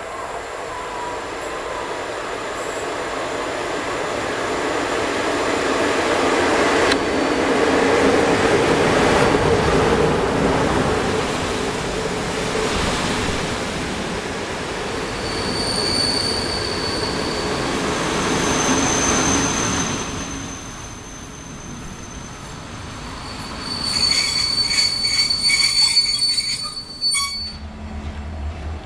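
A train running on the rails: noise that swells over the first ten seconds, with high, steady wheel squeals from about halfway through. Near the end come quick clicks of wheels over rail joints, and then the sound cuts abruptly to a low, pulsing hum.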